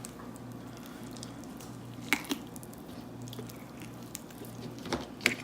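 Wet clicks and squelches of a knife cutting raw chicken to separate the leg and thigh from the carcass. There are a few sharp snaps about two seconds in and twice near the end, over a faint steady hum.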